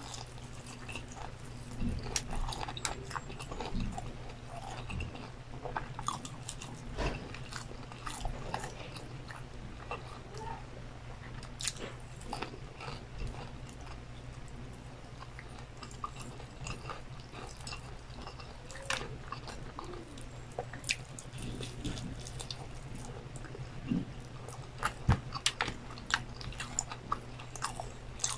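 Close-up chewing and biting of fried chicken and rice eaten by hand, with scattered small crunches and clicks over a steady low hum.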